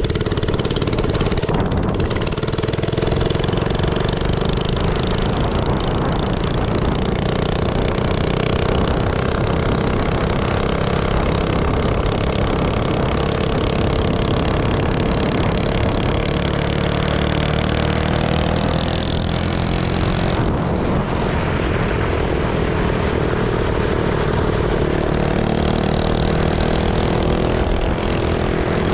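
Minibike's small engine running under way, its pitch rising and falling with the throttle, easing off briefly about 2 seconds in and again about two-thirds of the way through.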